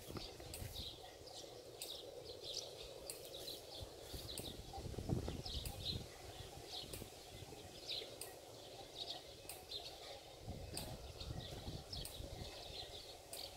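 Small birds chirping over and over, faint and irregular, with a low, uneven rumble underneath.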